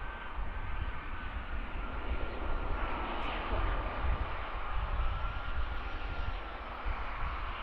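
Jet aircraft engines running, a steady rush with a faint whine that drifts slightly lower in pitch.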